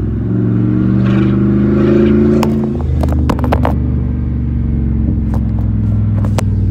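Truck engine through a new side-exit exhaust, revving up under acceleration for about three seconds, then easing off into a steady low drone. A few sharp pops come out of the exhaust as the throttle closes.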